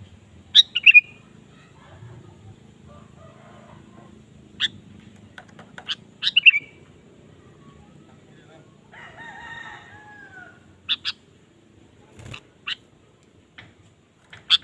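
Sooty-headed bulbul (kutilang) singing: short, sharp whistled notes in quick clusters of two or three, repeated every few seconds. A fainter, longer crowing call, like a rooster's, comes about nine seconds in.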